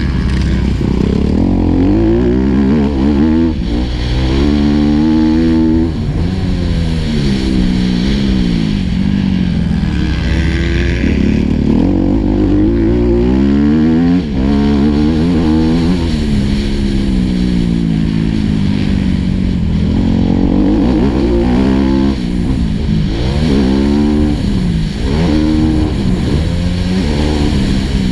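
Four-stroke single-cylinder motocross bike engine heard on board, revving up and dropping back over and over as the rider accelerates, shifts and rolls off around the track.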